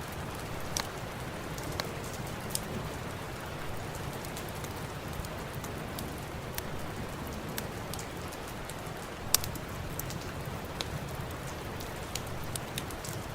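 Steady rain hiss mixed with a wood fire crackling: scattered sharp pops over the rain, the loudest about nine seconds in.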